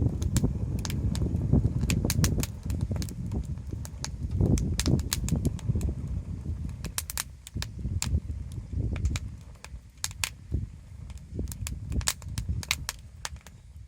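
Wood campfire crackling, with many sharp, irregular pops and snaps over a low rumble that eases after the first few seconds.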